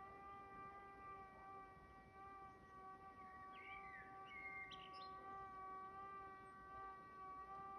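A faint, steady pitched tone held throughout, with a few short bird chirps about halfway through.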